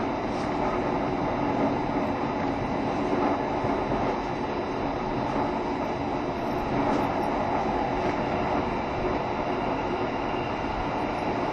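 Interior running sound of a JR Shikoku 7200 series electric multiple unit travelling at steady speed: a continuous rumble of wheels on track with a faint steady high tone.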